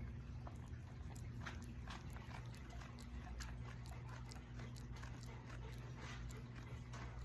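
Faint scattered clicks and rustles of a dog and a goat stirring, over a steady low hum.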